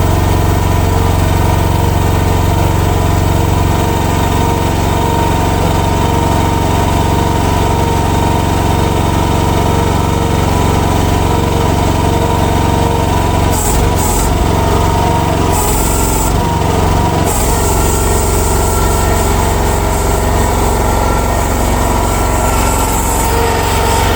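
Future FT15 mini excavator's small choke-started gasoline engine running steadily just after a restart. A few short hissing bursts come in a little past halfway.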